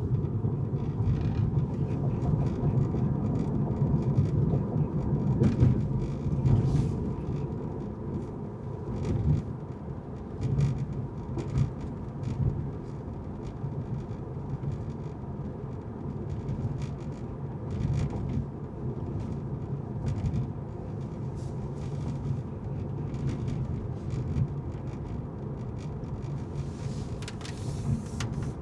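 Car driving on city streets: a steady low rumble of road and engine noise, louder for the first several seconds, with scattered short clicks and knocks and a brief hiss near the end.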